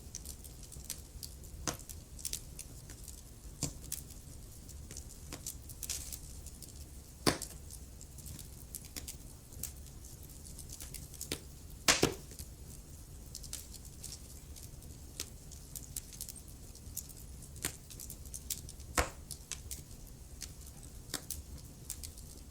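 Wood fire burning in a fireplace, crackling with irregular sharp pops over a low steady rumble; the loudest pop comes about halfway through.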